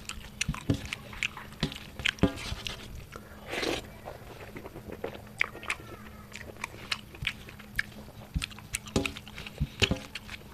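Close-miked mouth sounds of a man chewing a hand-fed mouthful of rice and curry: many sharp wet smacks and clicks, with a longer noisy smear about three and a half seconds in.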